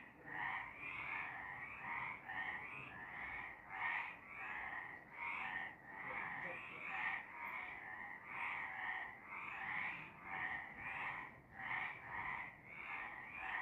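Several frogs croaking together in a steady chorus, calls repeating about twice a second and overlapping.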